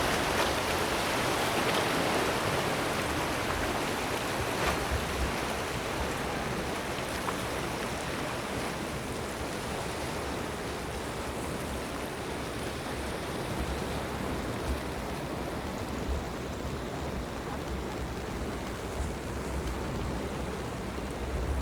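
Sea waves washing against a rocky coast, a steady rushing noise that eases off a little over the first few seconds. Wind rumbles on the microphone now and then in the second half.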